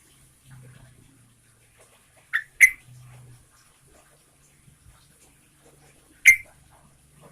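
Sooty-headed bulbul (trucukan) giving short, sharp call notes: two in quick succession about two and a half seconds in, and one more near the end.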